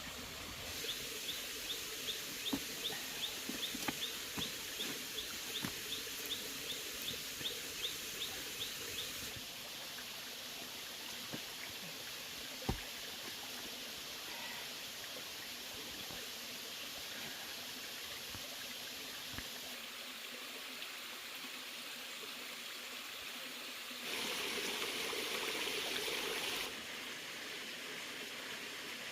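Steady trickling of a small stream. In the first third a short high chirp repeats about two or three times a second, over a run of soft knocks, and for a few seconds near the end the rushing water grows louder.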